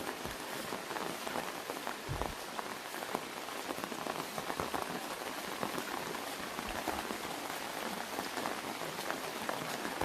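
Steady rain falling, with many individual drops hitting an umbrella overhead.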